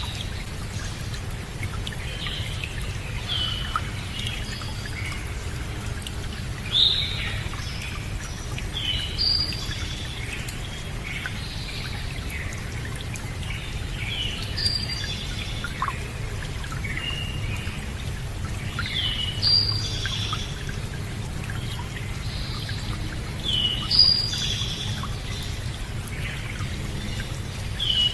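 Songbirds chirping in short, quick phrases every few seconds over a steady, low rushing noise of flowing water.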